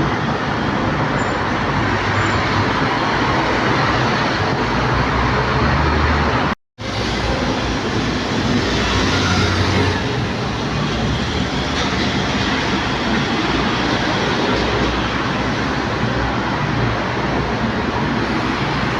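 Steady roar of aircraft engines, broken by a momentary dropout about seven seconds in where the footage cuts from one aircraft to the next; after the cut the sound is an Emirates Boeing 777-300ER's jet engines.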